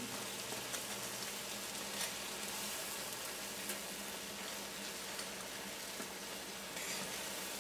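Pork-rind-breaded squirrel pieces frying in hot oil: a steady sizzle with a few sharp crackles or ticks scattered through it.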